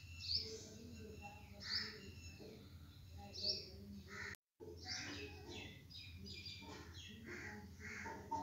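Birds chirping outdoors: a short, sharp falling chirp repeats about every one and a half seconds, then a busier mix of bird calls follows. The sound cuts out briefly about halfway through.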